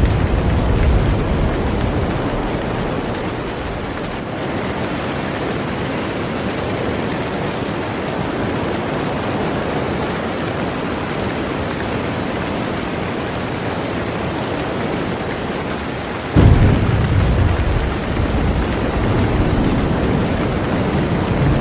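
Heavy rain falling on a boat: a steady, dense hiss. A deep low rumble fades out over the first few seconds and then returns abruptly about sixteen seconds in, louder.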